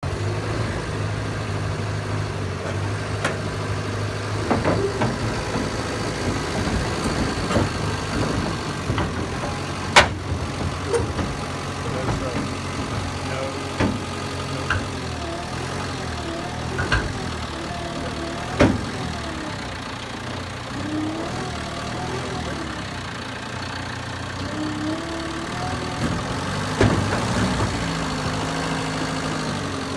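John Deere 550K crawler dozer's diesel engine running steadily, with a few sharp knocks from the machine, the loudest about a third of the way in.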